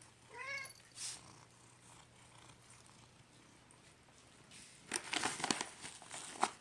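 A domestic cat meows once, a short call about half a second in. Near the end comes a stretch of soft rustling with small clicks.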